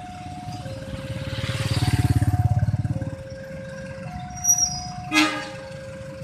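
Level-crossing warning alarm sounding, two tones alternating about every second. A vehicle engine swells and fades as it passes close about two seconds in, and a short horn toot sounds near the end.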